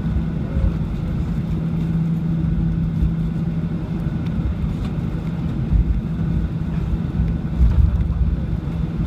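Steady low rumble inside a Boeing 737-800 cabin on the ground, with a steady hum that fades about three seconds in.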